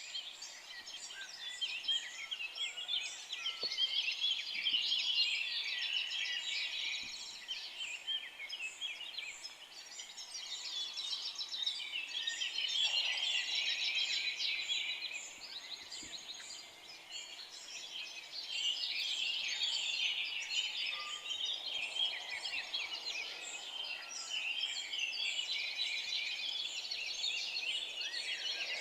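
Many forest birds singing at once: a dense chorus of high chirps and trills that swells and eases off in waves.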